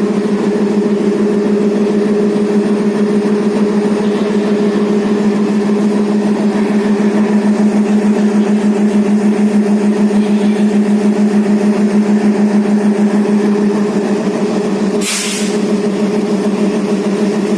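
Diesel locomotive engine idling with a steady, pulsing hum, and a brief hiss about fifteen seconds in.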